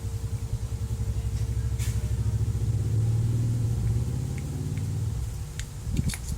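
A motor vehicle engine running nearby, a low pulsing rumble that swells and then eases off, with a few light clicks near the end.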